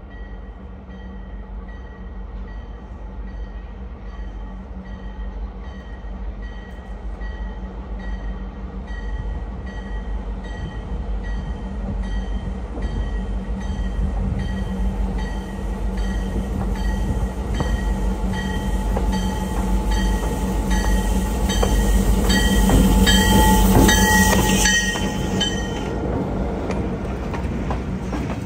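Diesel locomotive approaching with its passenger cars and passing close by, its engine rumble growing louder to a peak about three-quarters of the way through, then easing as the cars roll past. A bell rings at a steady, even pace throughout, and wheels click over the rails as the train goes by.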